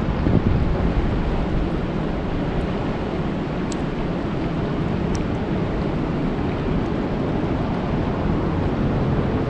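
Steady heavy rain falling on a lake, an even wash of noise with a deep rumble under it.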